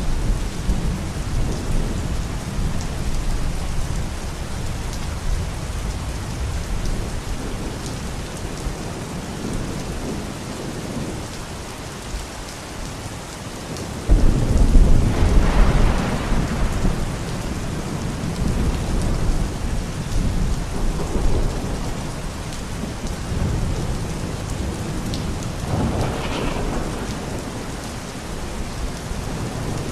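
Steady rain with rolling thunder: a sudden thunderclap about halfway through rumbles on for several seconds, and a smaller roll of thunder comes near the end.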